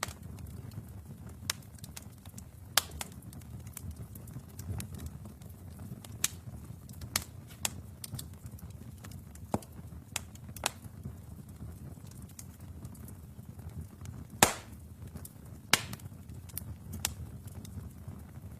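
Wood fire burning in a fireplace: a low rumble of flames with irregular sharp crackles and pops from the burning logs, two louder pops coming about three-quarters of the way through.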